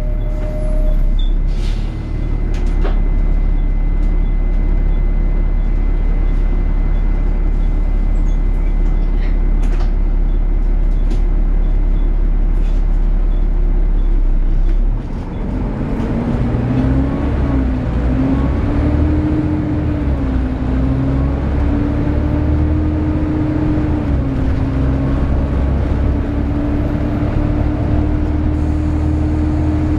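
Volvo B7TL double-decker bus running with its loud, hoover-like cooling fan drone. For the first half the drone is steady with a low rumble and a few faint clicks. About halfway it changes to a droning note that rises, dips and wavers in pitch.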